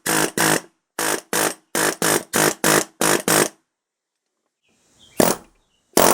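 Pneumatic air hammer buzzing in short trigger-pull bursts, about three or four a second, for the first three seconds or so. It falls silent, then gives two more bursts near the end.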